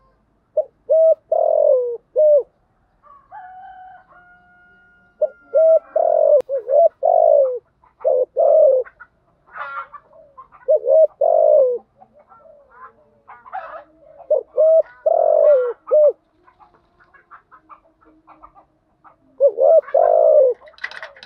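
Spotted doves cooing: repeated phrases of short, low coo notes in groups of several, with pauses between the groups.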